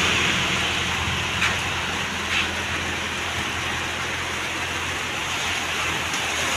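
Steady rain falling, with a truck passing on the wet road near the start, its tyre hiss fading over the first couple of seconds.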